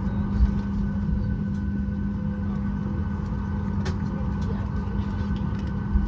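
Steady cabin hum inside a Boeing 737-800 on the ground, with a constant low drone and a couple of faint clicks.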